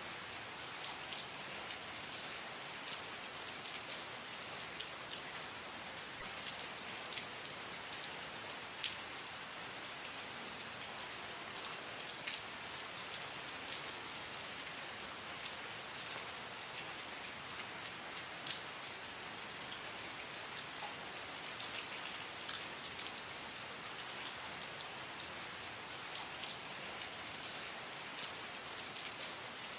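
Steady rain falling, a continuous hiss with many scattered individual drop ticks.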